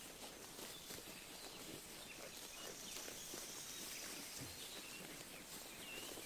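Sheep grazing close by: a quick, irregular run of soft tearing and crunching as they crop grass and chew. A few brief, high bird chirps sound in the background.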